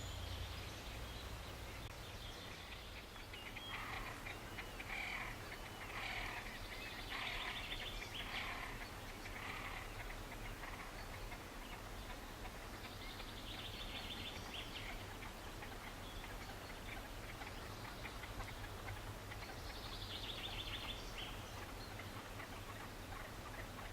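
Wild songbirds singing. A busy patch of varied calls comes about four to eleven seconds in, then two short trilled phrases falling in pitch, each about a second and a half long, over a steady low background rumble.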